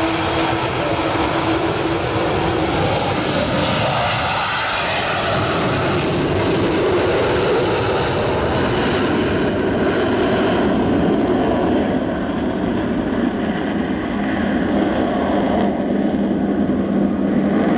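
Avro Vulcan XH558's four Rolls-Royce Olympus turbojets at takeoff power, a loud continuous roar. A steady low tone comes in during the last few seconds.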